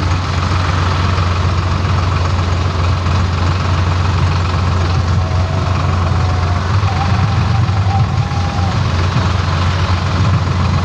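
Diesel tractor engine running steadily, a constant low hum that holds its speed and level throughout.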